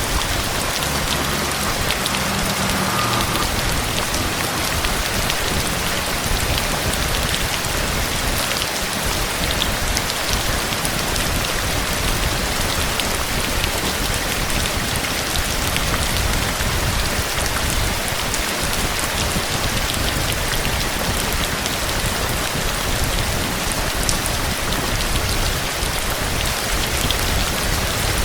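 Steady rain falling: a continuous dense hiss with many sharp drop ticks on top.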